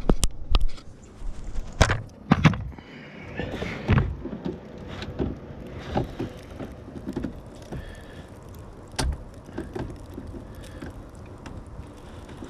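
Irregular plastic clicks and knocks as a blade fuse is pried and wiggled out of a truck's under-hood fuse box, several sharp ones in the first few seconds and fewer after.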